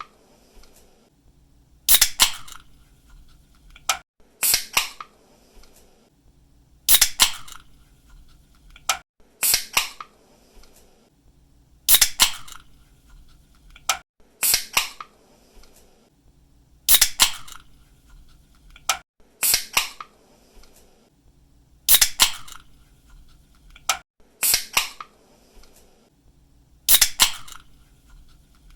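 Soda or energy-drink can being opened by its pull tab, again and again about every two and a half seconds: each time a sharp snap followed by a short hiss of escaping gas.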